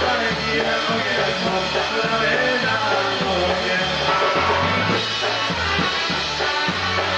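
Live polka band playing a polka, with a steady bass line stepping back and forth between notes.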